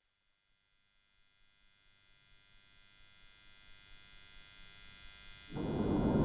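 Electronic drone of many steady, hum-like tones fading in slowly from silence. About five and a half seconds in, a loud, dense, grainy low layer enters suddenly beneath it.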